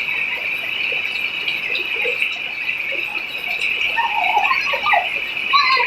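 Steady hiss of falling rain, with a child's short calls about four seconds in.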